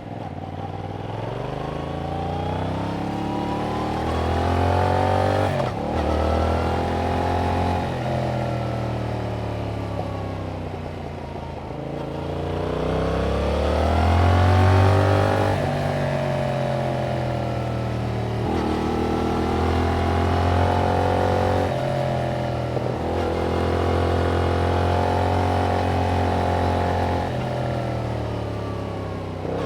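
Yamaha MT-07's parallel-twin engine through its original exhaust while riding, the revs climbing and falling again and again as it pulls through the gears. The loudest pull comes about halfway through.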